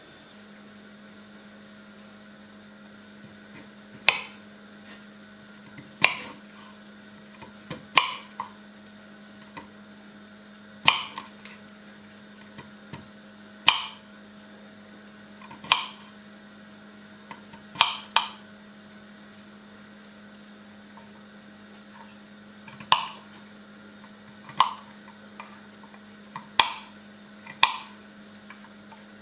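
Sharp taps and knocks of kitchen work, one every one to two seconds at uneven intervals, each with a short ring, over a low steady hum.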